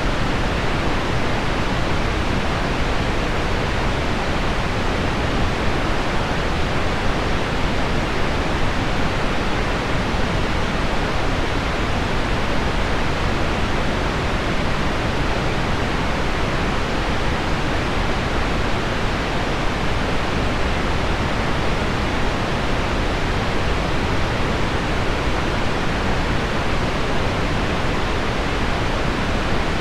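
Heavy rain on window glass blended with low pink noise, a steady, even rush with no single drops standing out.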